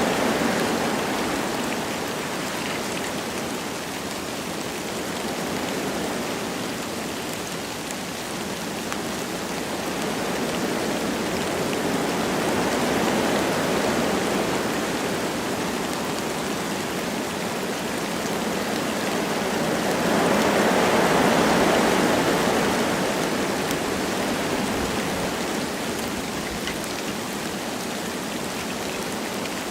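Wind blowing through forest trees with light rain falling, a steady rushing hiss that swells and fades in slow gusts, the strongest about two-thirds of the way through.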